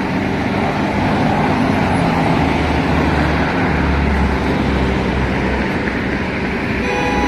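Steady freeway traffic and road noise, with a low, even engine hum under it.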